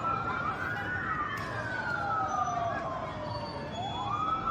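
Two emergency-vehicle sirens wailing together, each climbing quickly in pitch and then falling slowly, their cycles overlapping out of step. The sirens sound over a steady background noise.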